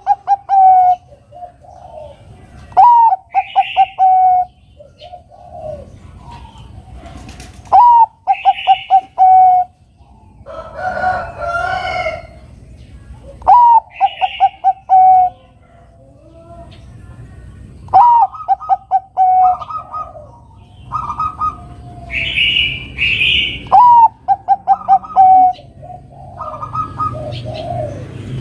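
Bangkok-type zebra dove (perkutut) singing its cooing song over and over. Each phrase opens with a rising note and runs into a quick string of short staccato coos, about every five seconds. Other birds chirp higher up between the phrases.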